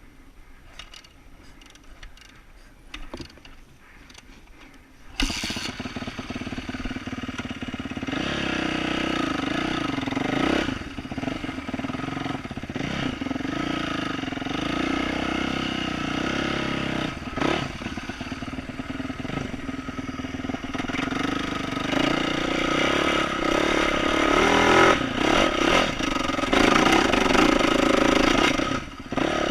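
A few faint clicks, then about five seconds in the 2012 Yamaha YZ450F's single-cylinder four-stroke engine, fitted with an aftermarket exhaust, starts and runs. The throttle rises and falls, getting louder in the last few seconds.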